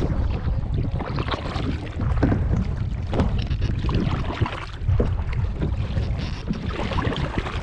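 Paddle strokes splashing and dipping in the water beside a stand-up paddleboard, with a steady low rumble of wind on the microphone.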